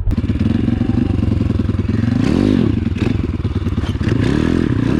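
Pit bike engine running under way, revving up and back down twice, with clattering knocks from the bike over rough ground.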